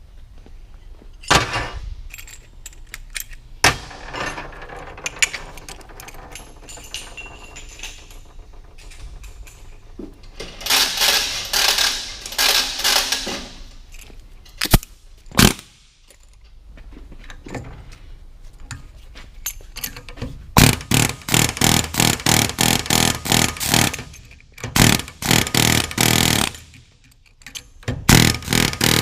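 A cordless hammering power tool (a 'gun') going in bursts against the differential's fasteners, with sharp metal clanks in between. The longest run of rapid, evenly spaced blows lasts about six seconds in the second half, with a shorter run near the end.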